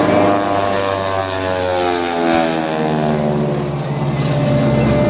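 Propeller airplane flying past, loudest about two seconds in. Its engine note drops in pitch as it goes by.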